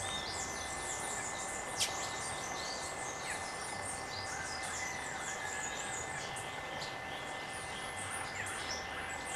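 Outdoor ambience full of short, high bird chirps and calls overlapping, over a few thin steady tones, with one sharp click about two seconds in.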